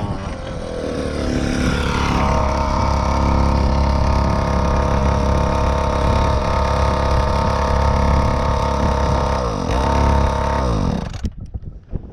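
Dirt bike engine revving up over the first two seconds, then held steady at high revs. The revs dip briefly and pick up again, then the engine sound drops away suddenly near the end.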